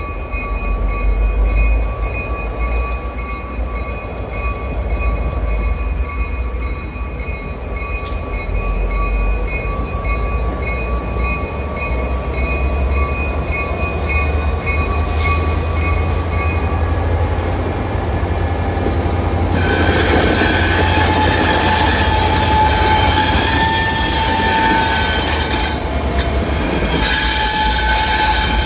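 MBTA switcher locomotive and its train moving along the track: a steady low diesel rumble with a thin steady whine. About twenty seconds in, the wheels start squealing loudly against the rails, a high squeal with several tones that runs on to the end.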